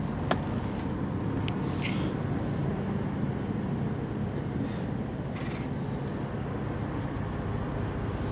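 Steady low hum of an idling semi-truck and its cab air conditioning, heard from inside the sleeper. A sharp click comes just after the start, and a few faint handling noises follow.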